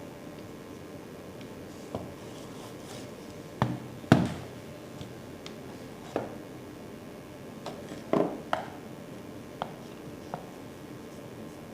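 About ten scattered knocks and clicks of hard parts and tools being handled on a work surface, the loudest a pair of knocks about four seconds in.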